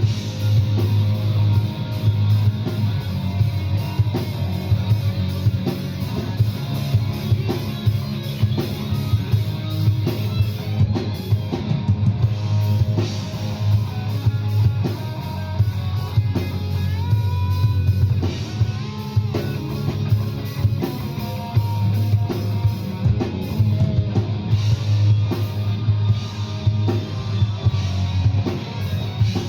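Rock music with a full drum kit, guitars and heavy bass, running without a break; a few sliding lead-guitar notes appear about halfway through.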